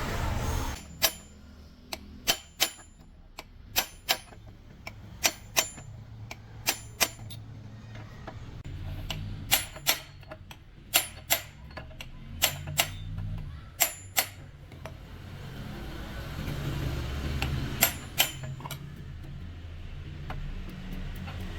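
Sharp metal-on-metal taps with a bright ring, often in quick pairs, about twenty in all, thinning out after about fourteen seconds, over a low rumble; the sound of steel parts being struck or knocked together while a truck gearbox is worked on.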